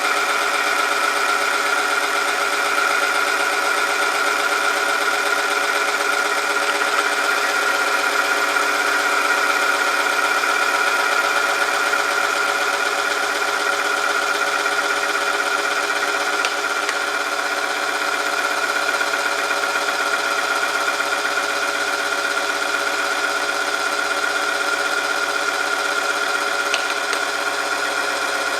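Oil film-strength test machine running steadily: its electric motor drives a rotating part against a metal sample lubricated with Royal Purple XPR 10W60, making a steady mechanical whine. A few faint ticks come through it.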